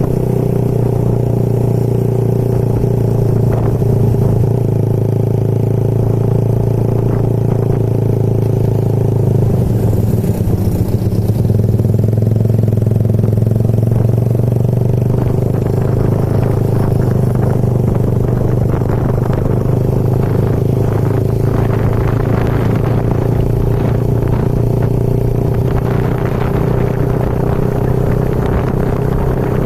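Vehicle engine running at a steady speed while on the move, with occasional clattering and scraping.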